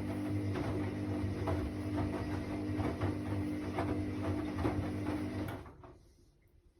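Hoover washing machine's motor turning the drum during the wash, a steady hum with irregular knocks from the tumbling load. The motor cuts out abruptly about five and a half seconds in as the drum stops turning.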